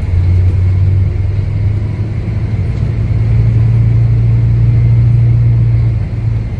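City bus engine heard from inside the cabin, a loud steady low drone whose pitch rises a little about halfway through as the bus picks up speed, then eases near the end.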